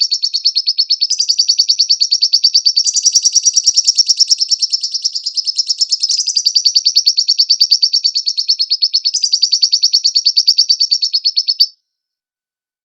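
Lovebird singing: a long run of rapid, evenly spaced, high-pitched chirps, shifting slightly in pitch every few seconds, that cuts off suddenly near the end.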